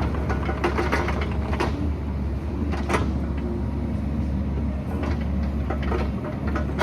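Excavator's diesel engine running steadily, with scattered knocks and clanks throughout.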